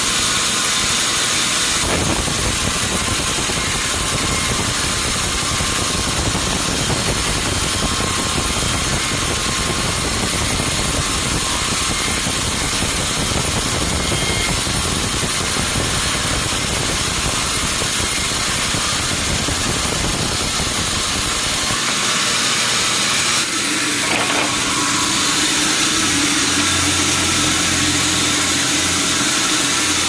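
Sawmill machinery running: steady engine and sawing noise. It changes abruptly about three-quarters of the way through to a steadier, lower hum.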